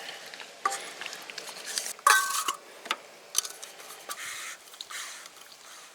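Scattered small clinks, clicks and brief rustling scrapes of objects being handled, the loudest about two seconds in.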